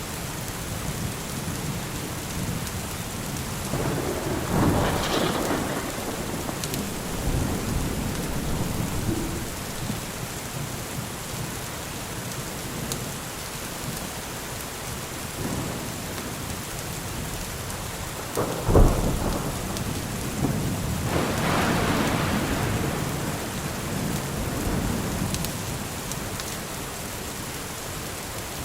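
Steady rain falling, with thunder: a rumble about four seconds in, then a sharp thunderclap about two-thirds of the way through followed by a rolling rumble.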